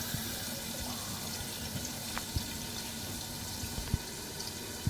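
Chicken curry sizzling steadily in a covered pan, with a few faint pops.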